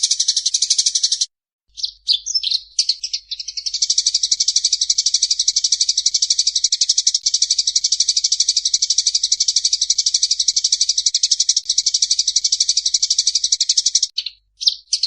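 Small songbird singing: a phrase that breaks off briefly, a few short choppy notes, then a long, fast, unbroken trill lasting about ten seconds, with a short pause and a few more notes near the end.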